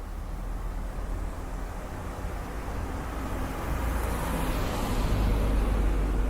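Street traffic ambience: a steady low rumble with a vehicle passing, growing louder from about halfway and loudest near the end.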